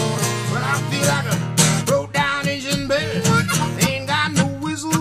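Acoustic blues guitar played in an instrumental break, with picked notes bending in pitch over a steady bass line.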